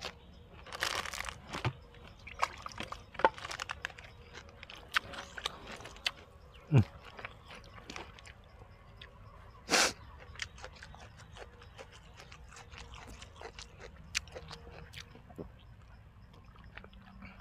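A person chewing and biting spicy squid-tendon salad with fresh vegetables: many small wet clicks of chewing, with a few louder crunchy bites, the loudest about ten seconds in.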